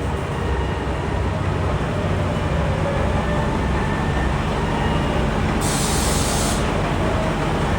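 Diesel train running at the station platform with a steady low engine hum. About six seconds in there is a short, sharp hiss of released air, as from its air brakes.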